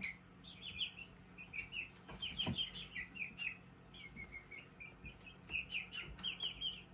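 Seven-week-old chickens peeping: many short, high chirps in quick runs, some falling in pitch, with a soft knock about two and a half seconds in.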